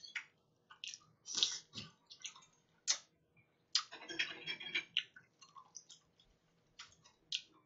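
Close-miked chewing of oysters: soft wet mouth clicks and smacks in short, irregular bursts, thickest about four to five seconds in.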